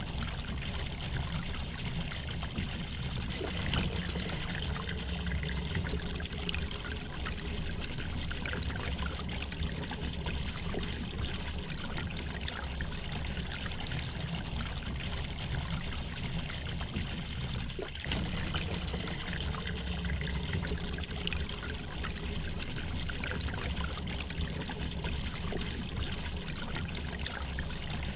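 River water flowing gently, a steady babbling and trickling with a low rumble underneath.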